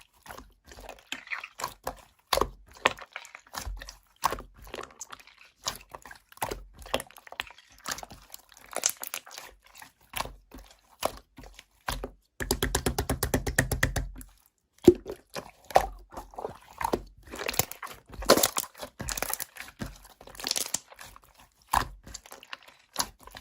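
Slime being squeezed and poked by hand, making irregular sharp clicks, pops and crackles. A little past the middle comes a rapid, even buzzing rattle lasting about a second and a half.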